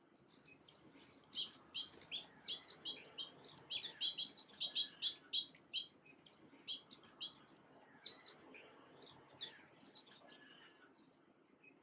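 Small birds chirping: a quick run of short, high chirps in the first half, then sparser single chirps.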